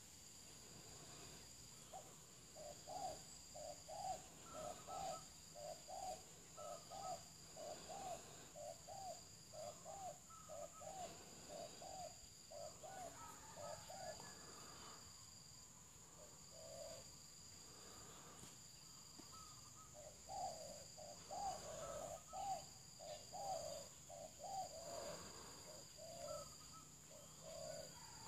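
A bird calling in two long runs of short, repeated hooting notes, about one and a half a second, with a pause in the middle. Insects keep up a steady high-pitched trill throughout.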